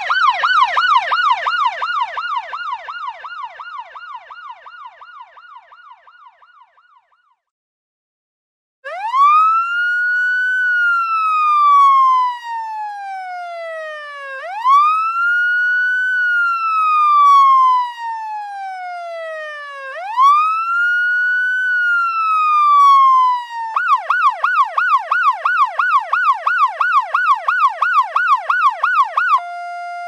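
Electronic ambulance siren sound effects. First a fast yelp, about four sweeps a second, fades away over the first seven seconds. After a short gap a slow wail rises and falls three times, then switches to the fast yelp near the end.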